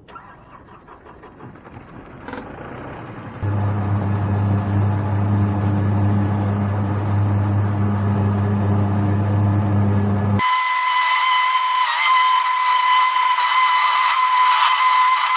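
New Holland Workmaster 50 tractor's diesel engine running steadily close by, getting louder over the first few seconds. About ten seconds in, the sound cuts abruptly to a steady high-pitched whine with hiss and no low rumble.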